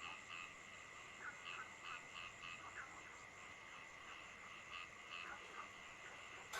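Frogs croaking in short calls that come every second or so, over a steady high-pitched tone and a faint hiss.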